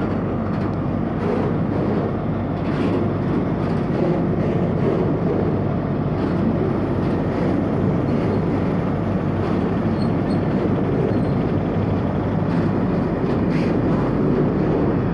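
Freight train of covered box wagons passing alongside the platform: steady noise of the wagons' wheels running on the rails.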